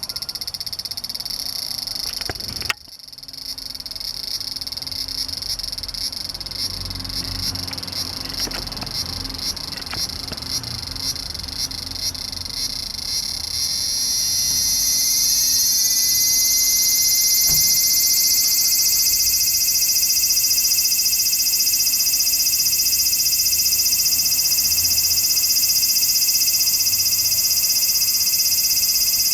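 Large brown cicadas (aburazemi) singing a loud, sizzling drone. The first half pulses a few times a second, and a sharp click about three seconds in briefly drops the level. About halfway through, the chorus swells into a louder, steady sizzle.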